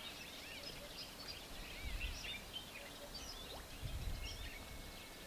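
Many small birds chirping and twittering in a dense, overlapping chorus, with two brief low rumbles about two and four seconds in.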